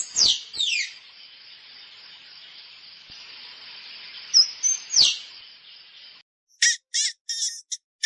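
Bird calls: two quick downward-sweeping whistles at the start, a couple of short whistles and another sweep about four to five seconds in, all over a steady high hiss. Near the end comes a run of short chirps, about three a second.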